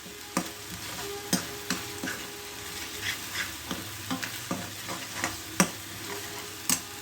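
A spoon stirring a thick spice paste in a frying pan, with a soft sizzle from the oil and irregular scrapes and taps against the pan, the sharpest near the end.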